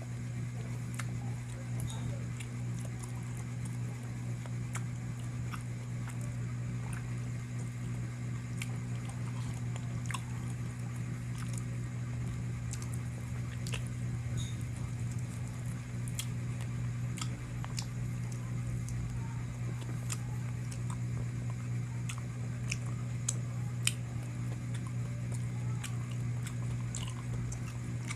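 A person chewing and biting into spicy chicken close to the microphone, with scattered small clicks and wet mouth sounds, over a steady low hum.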